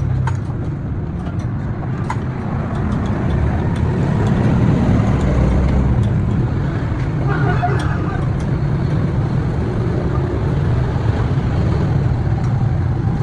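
Steady low vehicle rumble, with scattered light clicks and taps over it.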